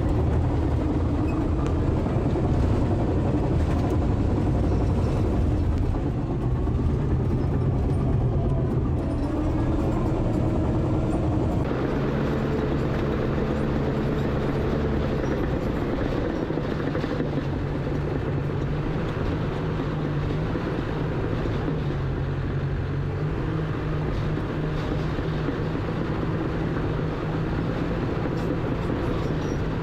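Crawler bulldozer's diesel engine running steadily as the machine tracks along, with an abrupt change in its tone about twelve seconds in.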